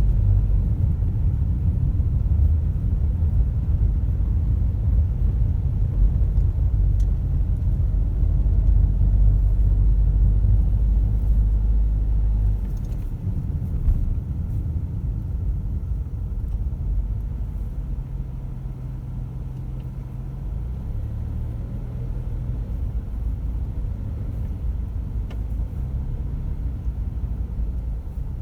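Car driving, heard from inside: a steady low rumble of road and engine noise, which drops in level about halfway through.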